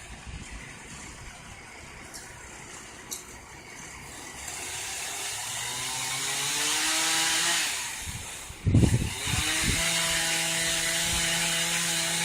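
Chainsaw engine revving up and easing off, then a loud thud, then the saw running steadily at high speed.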